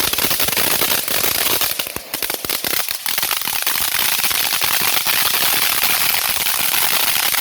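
Black Cat Medusa fountain firework spraying sparks: a loud, steady hiss packed with rapid crackling pops.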